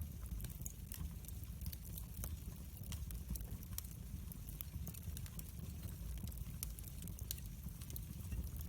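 Wood fire in a fireplace crackling, with many small irregular pops and snaps over a low steady rumble.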